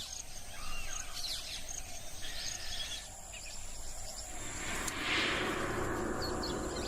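Tropical rainforest ambience: scattered short bird chirps over a steady high-pitched insect drone. About four seconds in, a hiss swells up and fades back.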